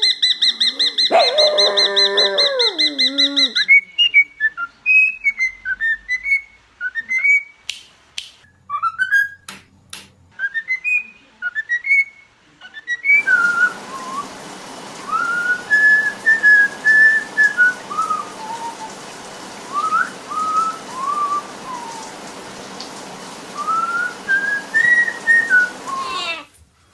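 A pet bird whistling: first a loud, steady shrill tone, then a long run of short whistled notes that rise and fall. The run comes in several separate clips, the last one over a steady hiss.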